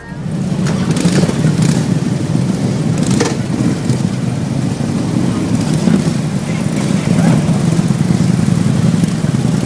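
A group of motorcycle engines running together: a loud, steady low rumble that comes in suddenly.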